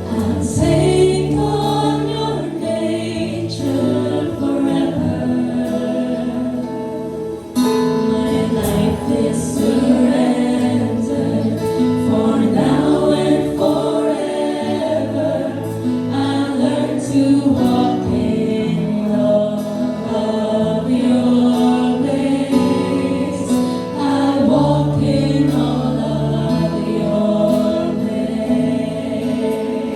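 Group of singers singing a Christian worship song in unison over instrumental backing. It eases off briefly about seven and a half seconds in, then comes back fuller.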